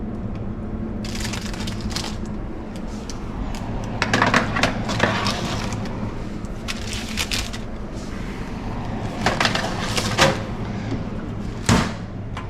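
Food dehydrator running with a steady low hum from its fan and heater, broken by several short bursts of crackling handling noise.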